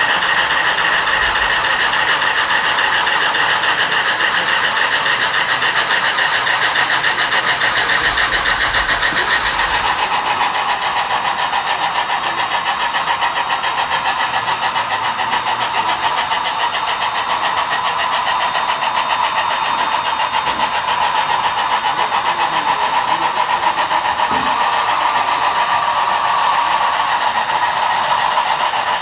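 HO-scale model freight train running along the track: a steady rattling whir of many small wheels and motors, its main pitch dropping about ten seconds in.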